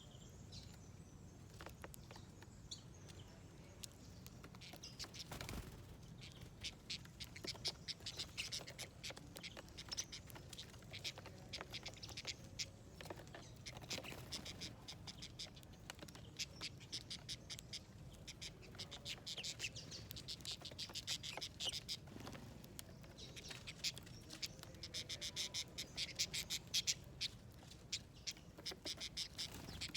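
Wild birds chirping: many short, high chirps in quick bunches, densest and loudest in the last few seconds.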